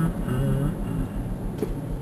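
Vehicle running in a heavy rainstorm, a steady noise haze over regular low engine pulses. A man's voice sounds briefly in the first second.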